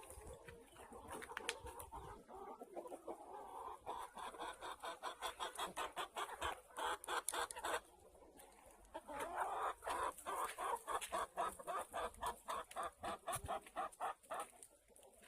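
Chickens clucking in long, rapid runs of short calls, several a second, with a brief pause about eight seconds in.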